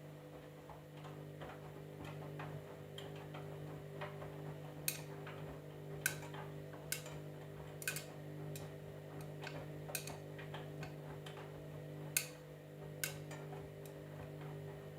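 Candy washing machine running a wash: a steady motor hum as the drum turns, with irregular sharp clicks and knocks, a few of them louder.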